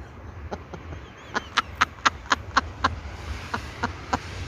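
A quick run of sharp clicks, about four a second, then a few fainter ones, over a steady low rumble.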